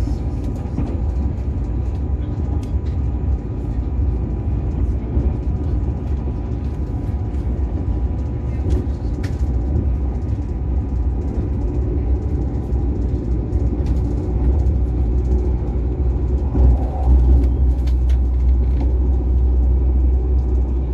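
Steady low rumble of a passenger train running at speed, heard from inside the carriage, with faint clicks and rattles over it.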